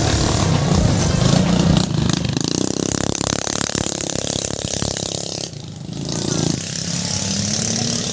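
Scooter engines revving during a dirt-track race, their pitch sliding up and down, with a brief dip in loudness about five and a half seconds in.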